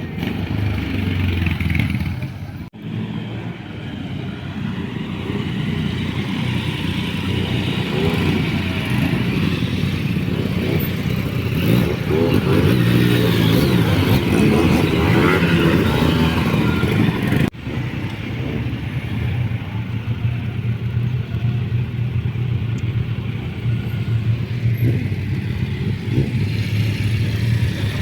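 Motorcycle engine running steadily under way, with two brief sudden drops in sound, about three seconds in and again past the middle.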